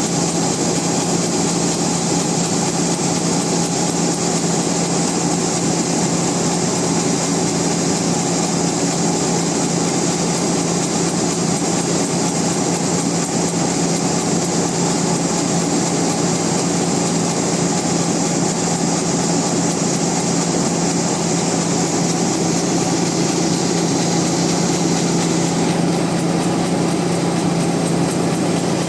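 Band sawmill running steadily, with a constant hum and a high hiss; the hiss eases near the end.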